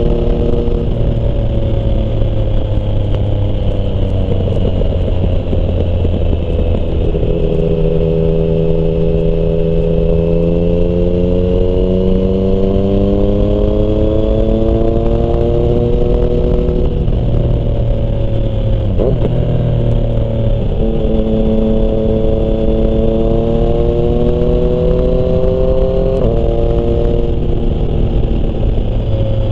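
Yamaha MT-09's three-cylinder engine through a Termignoni exhaust, under way: the engine note climbs slowly as the bike pulls, then drops sharply at gear changes several times, before climbing again.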